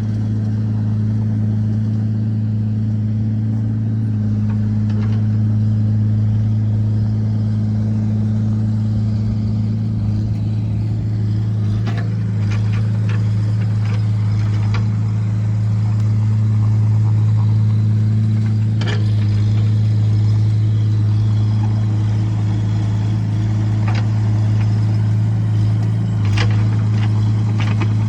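An engine running steadily with a low, even hum, with a few brief clicks.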